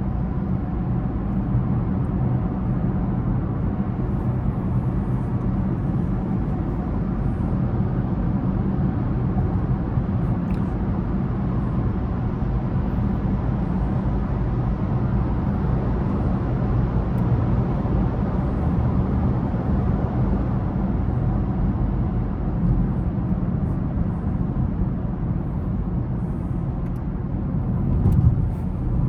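A car driving: a steady low engine hum under road and tyre noise, swelling briefly near the end.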